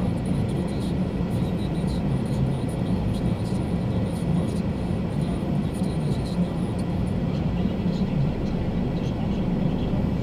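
Car idling at a standstill, heard from inside the cabin as a steady low rumble.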